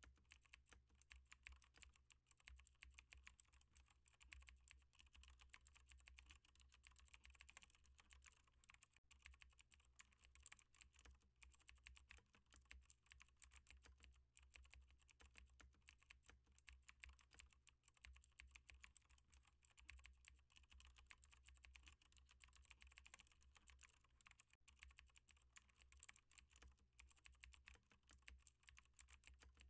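Typing on a computer keyboard: a fast, continuous stream of faint key clicks over a steady low hum.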